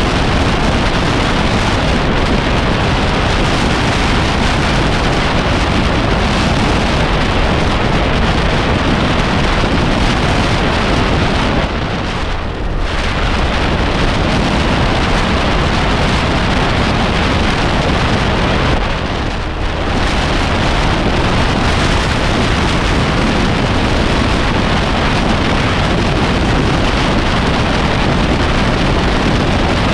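Steady loud rushing of wind over a riding motorbike's camera microphone, mixed with road noise; it eases briefly twice, about twelve and nineteen seconds in.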